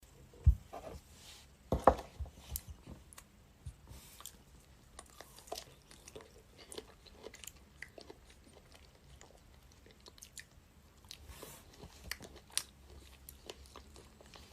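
An animal chewing something crunchy: irregular crisp crunches and clicks of biting, the loudest in the first two seconds.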